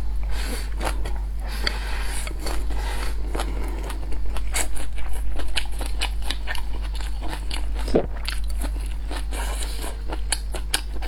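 Close-miked eating of braised pork belly and rice: chewing and biting, with utensils clicking and scraping against a bowl, over a steady low hum.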